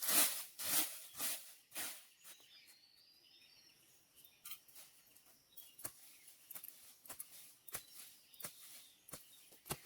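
A run of sharp knocks or crunches, about two a second, during the first two seconds. Then it goes quieter, with a faint wavering high whistle and scattered light clicks.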